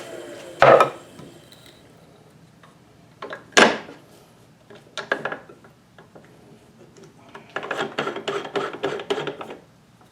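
Two sharp hard knocks, then a few lighter ones, and near the end a quick run of light clattering: wood and tools being handled at the lathe.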